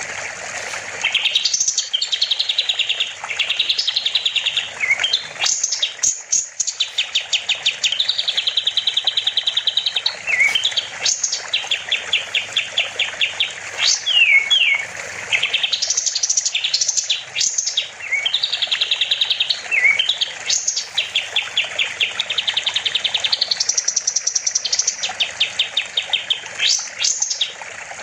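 Kapas tembak songbird singing: long runs of rapid trilled notes with quick upward-sweeping whistles, over a steady background of running water.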